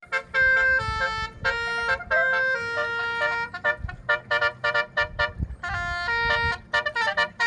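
Telolet 'basuri' musical air horn on the wooden Lake Toba boat KM Tao Nauli 02, playing a quick tune of short and held notes in greeting, with a low rumble underneath.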